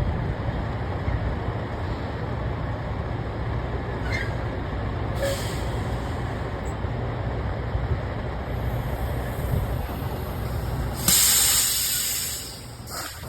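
Tractor-trailer's diesel engine running with a steady low rumble, then a sudden loud hiss of released air from the air brakes about eleven seconds in, fading away over a second or so.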